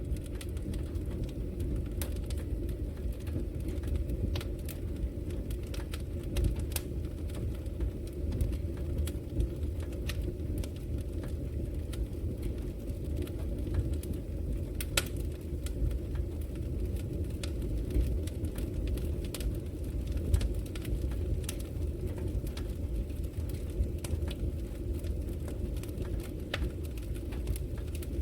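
Wood fire burning in a fireplace: a steady low rumble from the flames with scattered sharp crackles and pops from the burning logs, one louder pop about halfway through.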